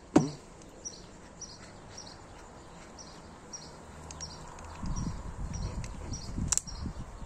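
A bird repeating a short high chirp about every half second, over the handling of a cordless drill whose chuck is being twisted open by hand. There is a sharp click just after the start, another click near the end, and low rustling handling noise in the second half.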